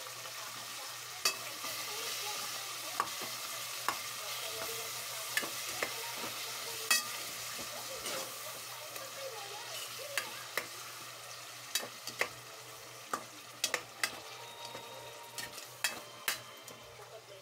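Minced meat sizzling in hot oil in an aluminium pot, stirred with a metal spoon that clicks and scrapes against the pot again and again. The sizzle eases off toward the end while the spoon's clicks come more often.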